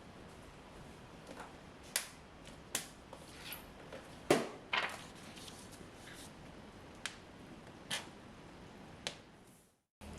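Light clicks and knocks of small household objects being handled and set down, about eight in ten seconds, the loudest about four seconds in, over a low room background that cuts out just before the end.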